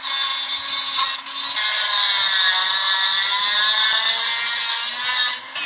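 Handheld power tool running under load on metal, with a brief dip a little over a second in, cutting off abruptly shortly before the end.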